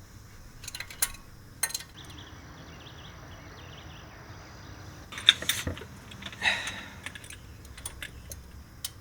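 Metal hand tools clinking and rattling in a few short, sharp bursts, with quiet between.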